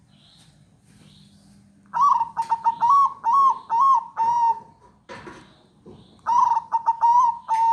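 Zebra dove (perkutut) cooing. It gives two song phrases of quick, clipped notes that run into a longer held note. The first phrase starts about two seconds in, the second near the end.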